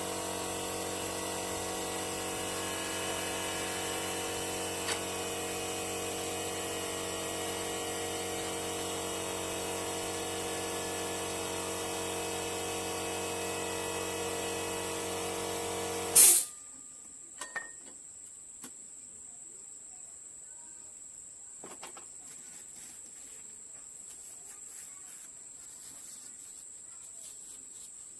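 A small electric motor, like a power tool's, running at a steady speed, then cut off about sixteen seconds in with a sharp click. A few faint clicks and a thin high whine follow.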